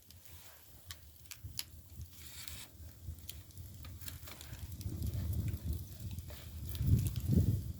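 Split bamboo firewood burning in a traditional Korean agungi firebox, crackling with scattered sharp pops. A low rumble builds in the second half and is loudest near the end.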